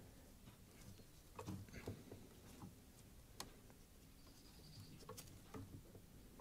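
Near silence with a few faint, scattered clicks and taps from hand work on the car's brake lines.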